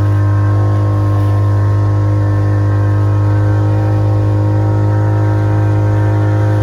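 Boat motor running at a steady speed, a loud, even drone with a strong low hum.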